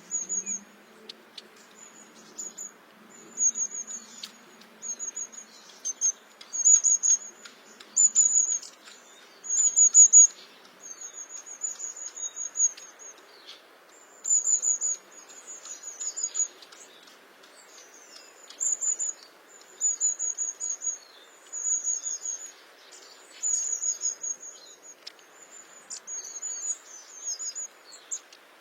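Long-tailed tit calling: short, very high, rapid trilled phrases repeated every second or two, over a faint steady background hiss.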